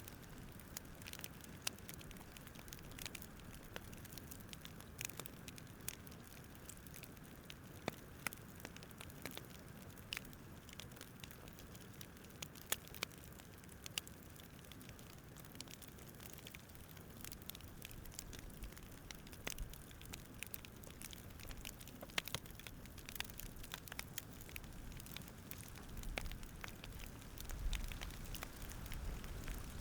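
Campfire crackling softly over a steady hiss, with irregular sharp pops and snaps. A low rumble swells near the end.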